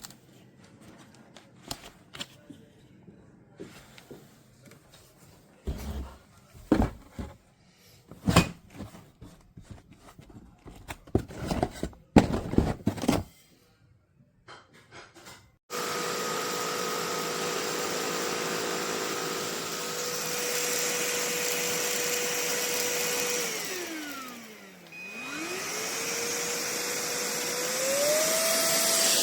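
Solac Solution AE2545 cordless stick vacuum: for the first half a series of sharp clicks and knocks, then its motor switches on with a steady whine. Some eight seconds later the motor winds down sharply and spins back up. Near the end it steps up to a higher pitch.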